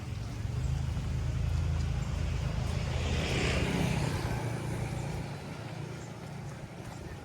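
A motor vehicle driving past close by: a low engine rumble with tyre hiss that builds to its loudest about halfway through, then fades away.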